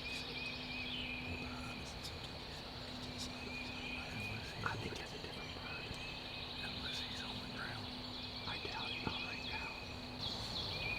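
Outdoor chorus of calling animals: steady trills, each lasting a second or two and repeating every few seconds, with scattered short chirps over a constant background hiss.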